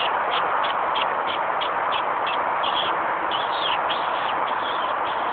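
A small bird calling with short high notes repeated about three times a second, a few longer gliding notes in the middle, over a steady background hiss.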